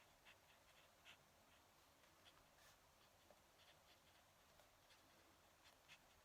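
Faint scratching and light ticks of a fountain pen nib writing on paper, in short irregular strokes.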